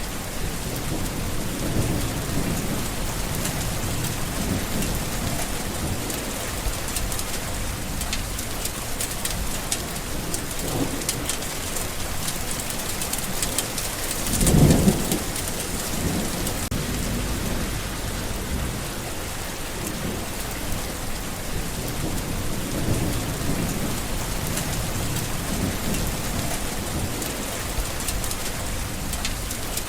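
Steady rain falling, with low rumbles of thunder underneath and one short, louder rumble about halfway through.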